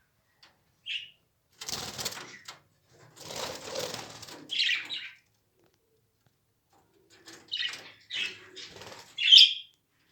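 Lovebirds flapping their wings and giving short, sharp chirps, about six calls with the loudest near the end.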